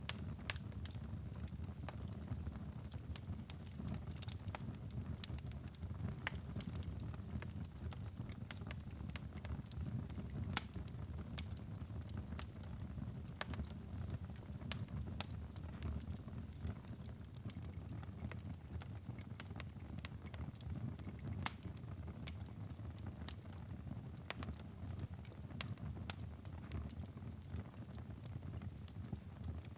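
Wood fire burning in a fireplace: a steady low rumble of flames with irregular crackles and pops, a few sharper pops standing out.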